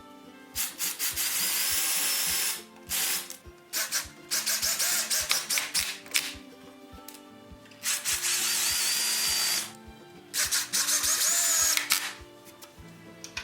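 Power drill running in several bursts of one to two seconds, its high motor whine dipping under load and recovering, over background music with a steady beat.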